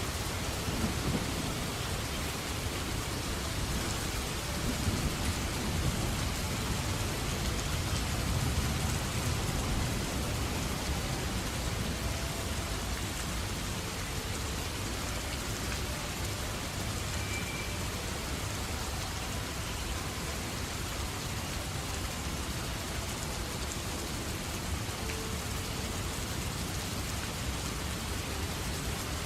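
Steady rain falling, with low thunder rumbling through the first ten seconds or so.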